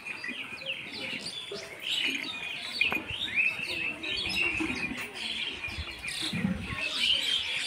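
Birds chirping, with many quick calls overlapping one another.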